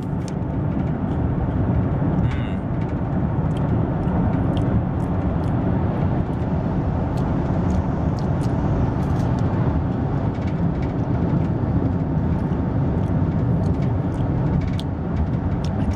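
Steady road and engine noise inside a moving car's cabin, a constant low rumble, with scattered faint clicks.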